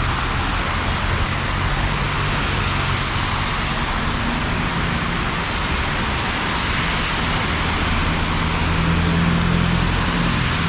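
Heavy rain falling steadily, with the low hum of motor traffic underneath that grows a little louder near the end.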